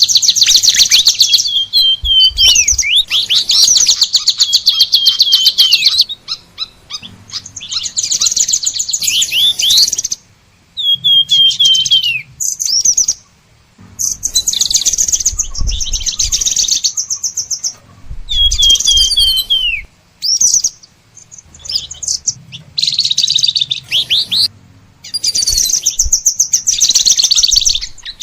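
Songbirds singing in long phrases of very fast, high trills mixed with repeated down-slurred whistled notes, broken by short pauses every few seconds.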